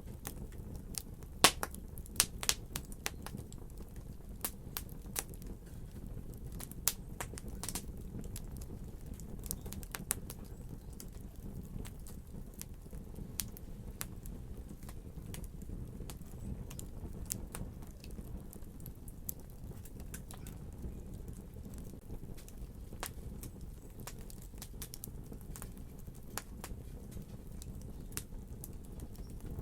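Wood fire crackling and popping: sharp irregular snaps over a steady low rumble of flames, with a cluster of louder pops in the first few seconds.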